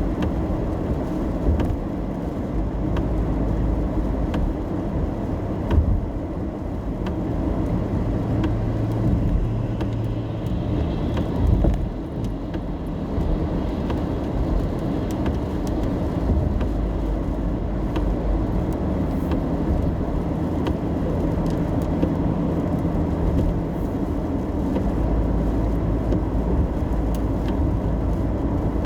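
Steady road and engine rumble inside a car driving in the rain, with scattered ticks of raindrops on the car and a low engine hum that shifts now and then. There are two brief thumps, about six and twelve seconds in.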